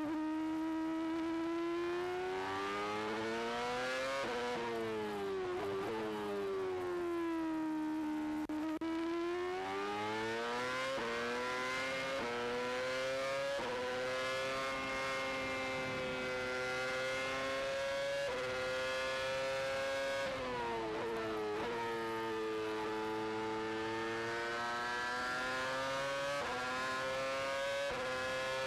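Formula One car's Cosworth 2.4-litre V8 engine at racing revs, heard from the onboard camera. The pitch rises and falls as the car laps, with quick gear changes: a sharp drop in pitch about 4 seconds in and again about 20 seconds in, and a run of small steps from about 11 seconds on.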